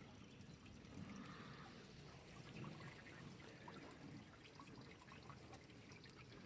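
Faint trickle of spring water, a quiet steady flow.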